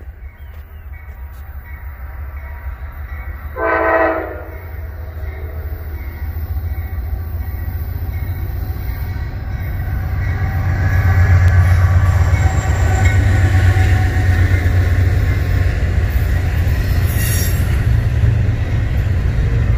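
Diesel freight locomotive approaching and passing, sounding one short horn blast about four seconds in. Its low engine rumble builds and is loudest as it goes by, then gives way to the steady rolling of double-stack container cars over the rails.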